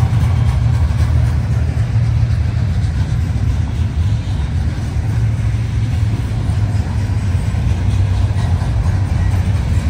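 CN freight train rolling past with a steady low rumble.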